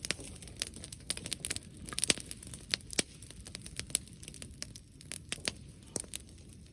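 Bonfire crackling: irregular sharp snaps and pops, several a second, over a low steady hiss.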